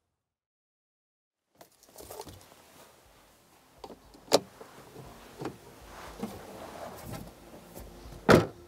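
Silence for about a second and a half, then rustling handling noise with a few sharp clicks and knocks, the loudest one near the end.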